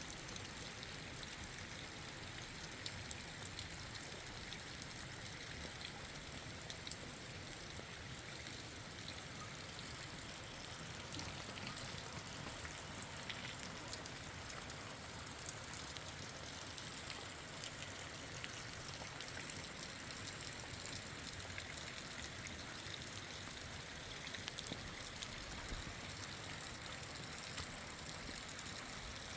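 Steady rain falling, with scattered small drips.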